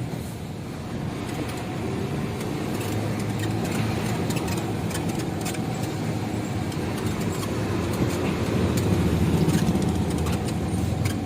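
Truck's diesel engine running on biodiesel made from used cooking oil, with road noise, heard from inside the cab while driving: a steady low rumble that swells a little near the end, with a few light rattles.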